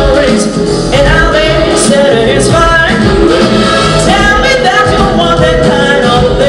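Live band music with a singer's voice over it, a pop song performed on stage.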